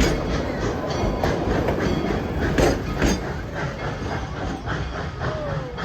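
Tweetsie Railroad's narrow-gauge steam train, hauled by locomotive No. 190, rolling along with a low rumble and irregular clanking and clacking of wheels over the rail joints. A brief falling squeal comes near the end.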